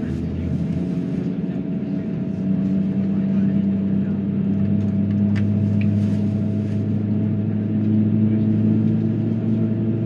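Jet airliner engine spooling up during engine start, heard inside the cabin: a low drone with a steady hum that grows louder in steps over the first few seconds, then holds steady.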